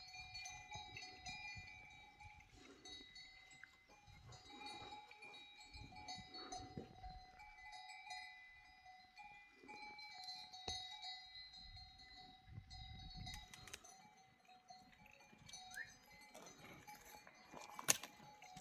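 Bells on a flock of goats and sheep ringing faintly and continuously, with a single sharp click near the end.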